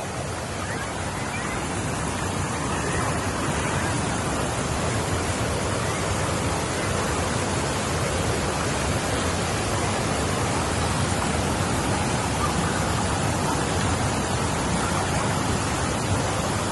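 Waterfall: a steady, even rush of falling water, growing slightly louder over the first couple of seconds.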